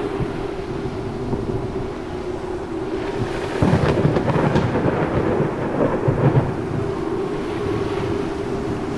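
Thunderstorm: a steady wash of rain with a long roll of thunder that swells about three and a half seconds in and dies away about three seconds later.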